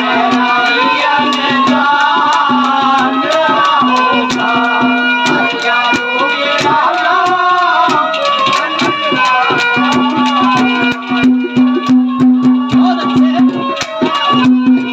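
Live Haryanvi ragni folk music: a wavering, quickly ornamented melody over a steady low note, with fast, dense hand-drum strokes and rattling percussion.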